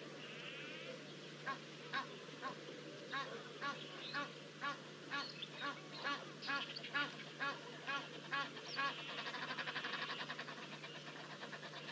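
A bird calling over and over, short honking calls about two a second for several seconds. A fast buzzing trill sounds at the start and comes back near the end.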